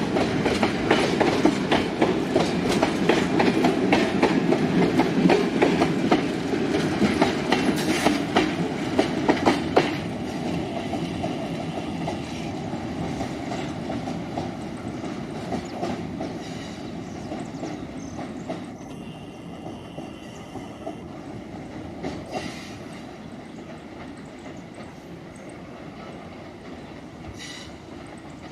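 Long freight train of loaded wagons rolling past, wheels clicking rhythmically over the rail joints. The sound is loud for the first ten seconds or so, then fades away gradually.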